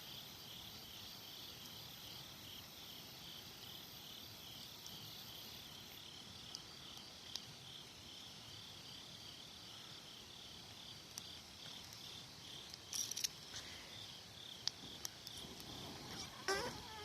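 Autumn insects chirping in an even pulsing rhythm, about three chirps a second, with a thin high trill above them that stops about six seconds in. A few sharp clicks and knocks sound near the end.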